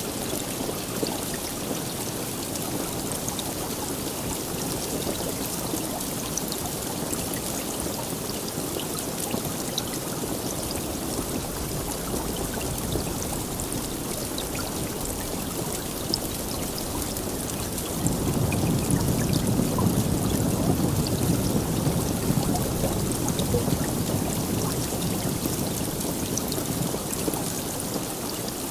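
Steady heavy rain with scattered drop ticks, and a low rumble of thunder that swells in about two-thirds of the way through and fades near the end.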